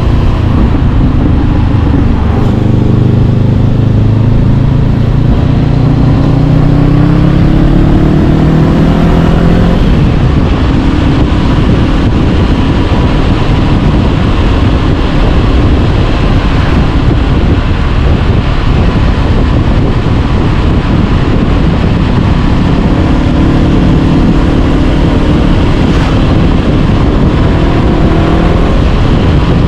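Honda CB500X's parallel-twin engine through an Arrow Pro-Race exhaust while riding, the pitch rising under acceleration over the first ten seconds. It then settles into a steady run buried in a dense rush of wind and road noise. The engine note comes through again near the end, rising and then dropping.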